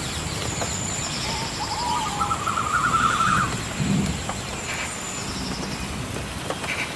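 Rainforest ambience: steady rain hiss under a high, steady tone, with a bird calling in a quick series of short notes in the first half. A low rumble comes about four seconds in.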